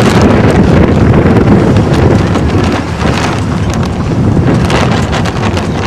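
Wind buffeting the camera microphone: a loud, steady low rumble with scattered small clicks and crackles.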